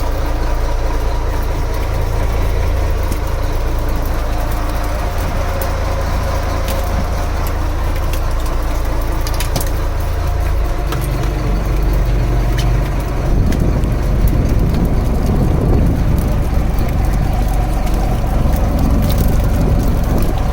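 Fishing boat's engine running steadily, then growing louder about twelve seconds in as the boat gets under way.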